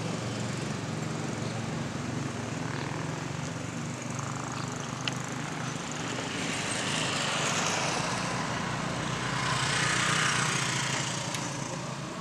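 A small engine idling with a steady low hum, while road vehicles pass the crossing, their noise swelling twice, about seven and ten seconds in.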